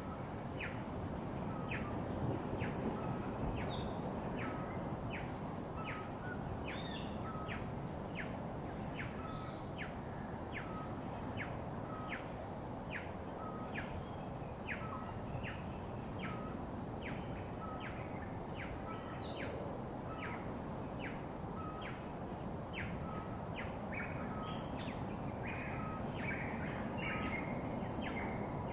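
A bird calling over and over, each call a short note sliding sharply down in pitch, repeated roughly once a second, with a few other chirps near the end. A steady high-pitched tone and a low, even background rush run underneath.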